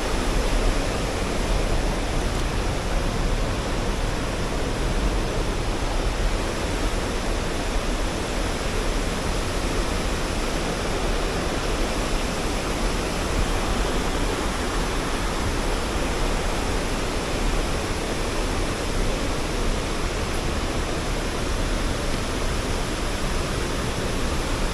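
La Fortuna Waterfall's falling water: a loud, steady, unbroken rush.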